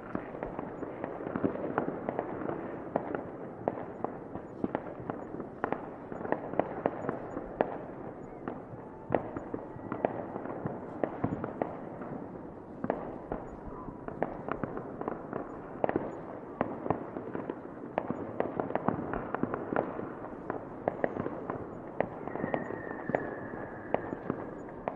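Fireworks going off in a dense, irregular barrage of many sharp cracks and bangs over a continuous rumble, with a brief faint whistle near the end.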